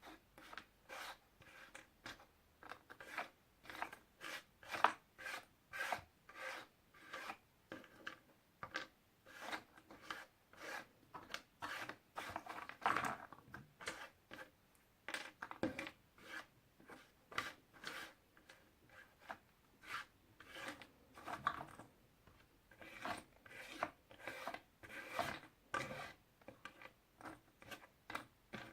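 Puzzle pieces being handled: a steady run of short rubs, scrapes and taps, about two a second, with a few longer rubbing strokes midway.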